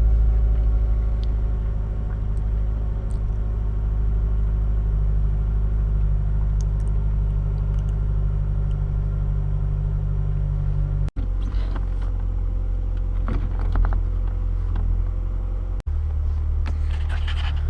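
Mazdaspeed 3's 2.3-litre turbocharged four-cylinder idling steadily with a low, even hum. The sound drops out briefly twice, about 11 and 16 seconds in.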